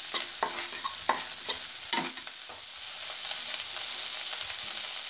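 Spice paste sizzling steadily in mustard oil in a non-stick pan while a spatula scrapes and stirs it, in several short strokes over the first two seconds and a sharp knock about two seconds in. The spices are being fried through to cook off their raw smell.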